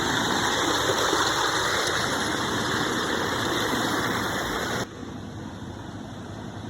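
Waterfall rushing, a steady loud roar of falling water. About five seconds in it cuts off abruptly to a much quieter, thinner rush.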